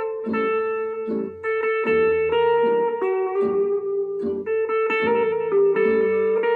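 Instrumental music: a guitar playing a sustained melody over a plucked, arpeggiated accompaniment from a backing track.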